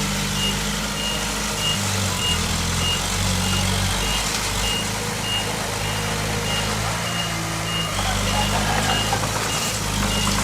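Reversing alarm on a heavy earth-moving machine beeping steadily, a high beep a little under twice a second, over the machine's diesel engine running, its pitch shifting now and then with the load.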